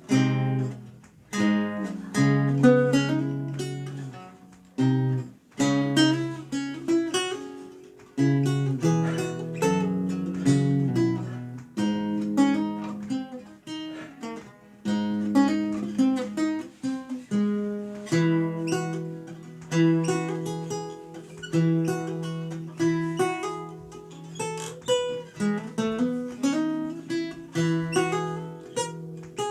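Renaissance lute played solo, plucked notes and chords with bass lines, each note ringing and dying away.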